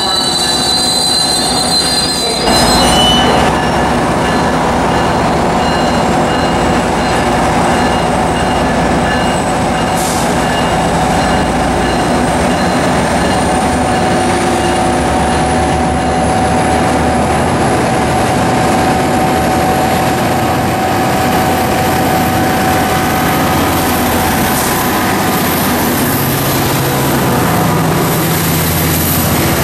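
Tri-Rail commuter train's bilevel coaches rolling past with steady, high-pitched wheel squeal. Near the end a lower engine sound from the diesel locomotive at the rear grows in.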